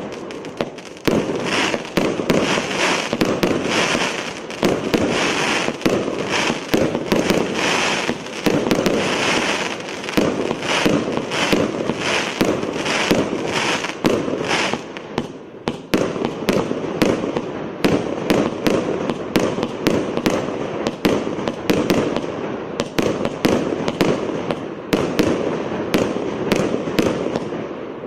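A 600-shot firework cake with 1-inch tubes firing a rapid, unbroken volley: sharp launch and burst reports several times a second over a constant crackle.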